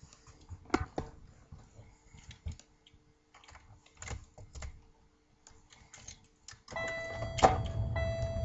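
Car cold start at −30°F: a few seconds of scattered clicks and knocks over a faint steady hum, then about two-thirds of the way in the engine starts abruptly and keeps running with a low rumble and a steady high tone over it. One loud knock comes just after it catches.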